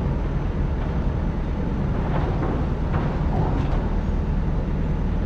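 Excavator engine running steadily, a low, even drone.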